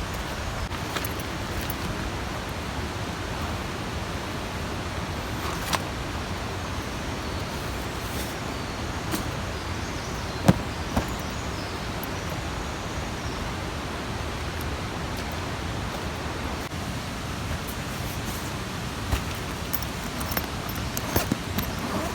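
Steady rushing outdoor noise, even across high and low pitches, with a few faint clicks and knocks.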